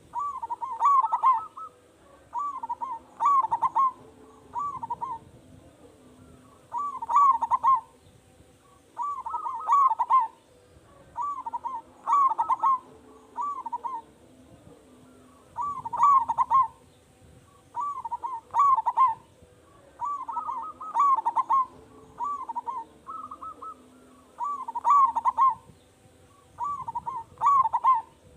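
Zebra dove (perkutut) singing vigorously: short runs of quick, stuttering coos, repeated every second or two.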